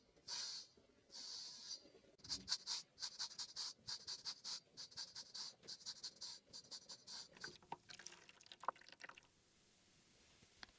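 A blade scraping across the bare skin of a person's back in the traditional 'old-knife back scraping': faint dry rasping strokes, a few slower ones at first, then a quick even run of about four short strokes a second from about two seconds in, thinning out and stopping near the end.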